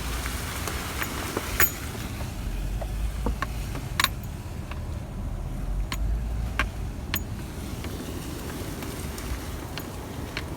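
A vehicle's steady low rumble, with a few sharp knocks or rattles scattered through it.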